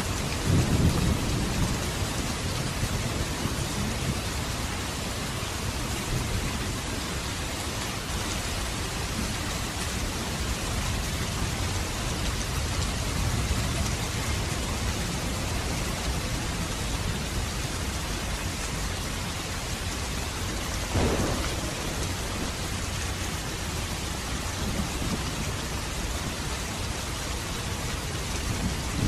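Steady rain falling, with low thunder rumbling near the start and one brief, sharper crack about two-thirds of the way through.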